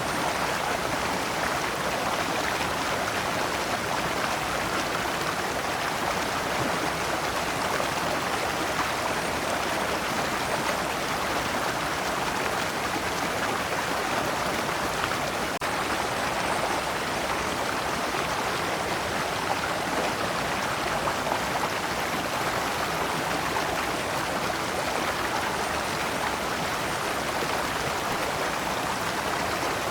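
A shallow stream flowing steadily over rocks, splashing in small cascades.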